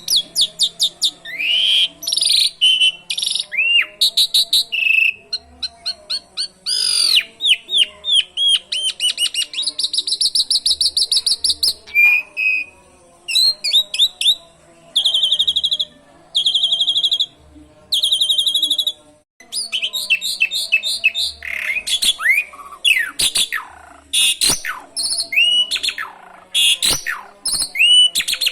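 Asian pied starling (jalak suren) singing a long, varied song of sweeping whistles and fast trills, with canary song mimicked in it.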